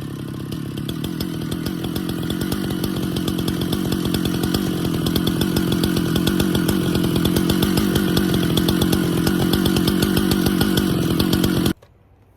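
Husqvarna chainsaw running at high revs, cutting into a pecan round, growing gradually louder as it works through the wood. It cuts off abruptly near the end.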